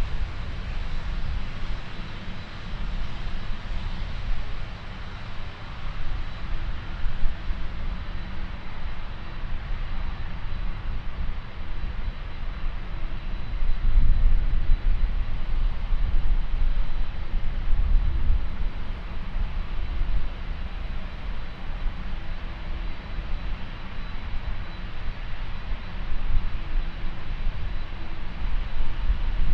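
Jet airliner engines, a steady noisy rumble from a passing aircraft, with wind buffeting the microphone in low gusts.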